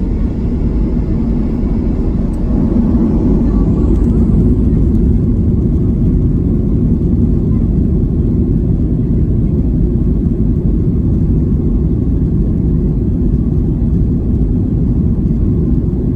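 Steady, loud rumble of a Boeing 737-700's CFM56-7 jet engines and airflow, heard from inside the passenger cabin.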